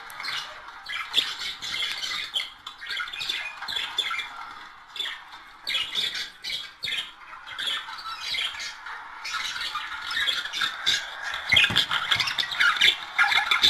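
Budgerigars chattering and warbling without a break: a dense stream of short chirps and squawks, the warble typical of budgie song in breeding mood. It grows louder and busier about ten seconds in.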